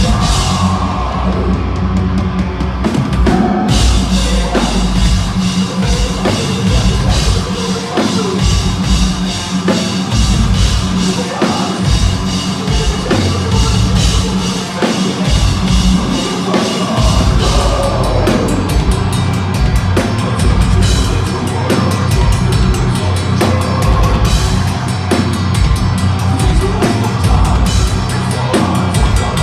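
Metalcore band playing live, loud and dense, with the drum kit and bass drum to the fore; cymbals fill in the top about three and a half seconds in.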